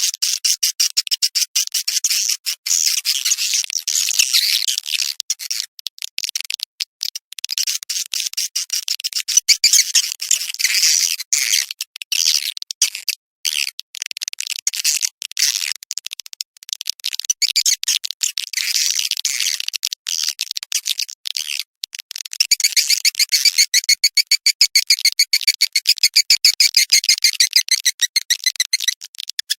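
Edible-nest swiftlet calls: a fast, high twittering chatter of chirps and trills with frequent short breaks, growing louder and denser about two-thirds of the way through. It is the kind of swiftlet 'calling sound' played from swiftlet houses to lure the birds in to roost and nest.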